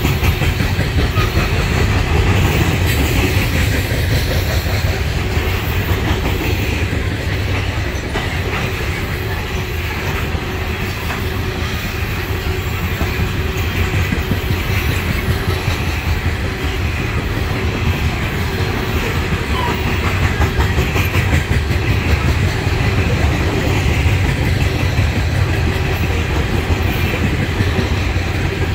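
Loaded coal hopper cars of a freight train rolling past, steel wheels on the rails making a steady heavy rumble with clickety-clack over the rail joints.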